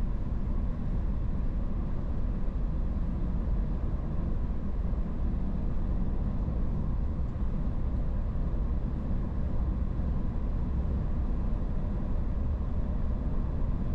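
Car driving at a steady speed: an even, unbroken rumble of road and engine noise.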